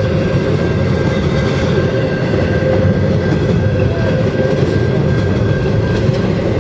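Freight train's double-stack intermodal well cars rolling past at close range: a loud, steady rumble of steel wheels on rail with a faint steady high note running over it.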